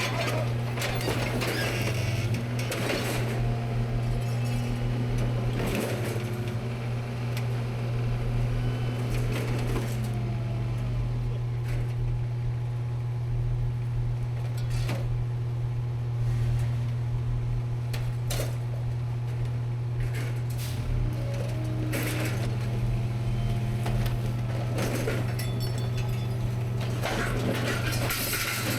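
Rear-load garbage truck running, a steady low hum from its engine and hydraulics, with scattered clanks and knocks from the hopper.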